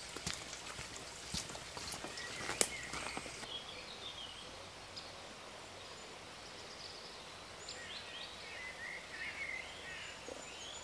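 Faint countryside ambience: a few sharp ticks and taps in the first few seconds, then small birds chirping on and off.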